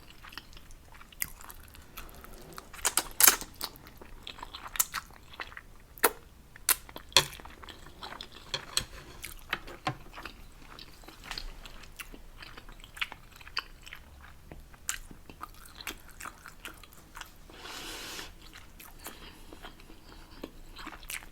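Close-miked chewing and eating: scattered wet mouth clicks and bites, with a second-long airy hiss about three-quarters of the way through.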